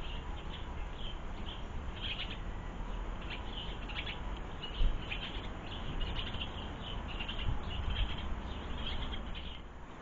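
Small garden birds at the feeders chirping: a steady run of short, high chirps, with a brief thump about five seconds in.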